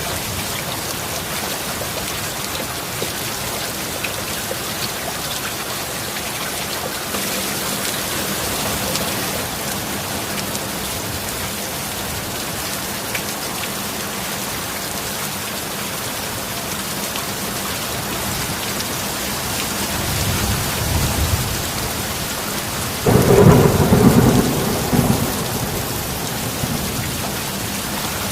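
Steady rain, with a low rumble of thunder building about twenty seconds in, then a sudden louder thunderclap a few seconds later that rolls away.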